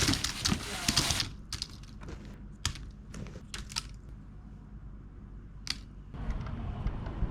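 Wood fire crackling: a dense run of crackles for about the first second, then single sharp pops every second or so. A low steady rumble comes in near the end.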